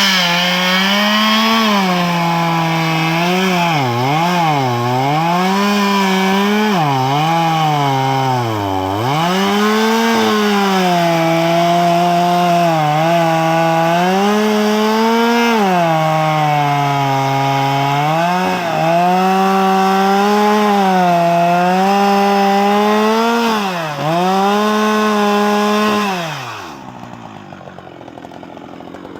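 Two-stroke Husqvarna chainsaw running at full throttle in a cut, its high engine note dipping again and again as the chain bogs down in the wood and then picking up. Near the end the revs fall away and it drops much quieter.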